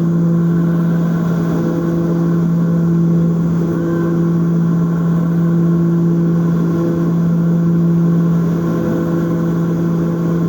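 Propeller airliner's engines droning steadily, heard inside the passenger cabin: one even, unchanging hum with a clear pitch.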